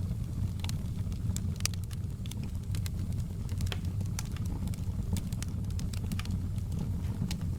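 Fire burning in a fireplace: frequent irregular sharp crackles and pops over a steady low rumble.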